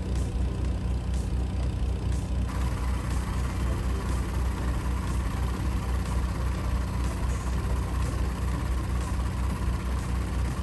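Heavy diesel engine idling with a steady low, pulsing throb; a steady hiss joins about two and a half seconds in.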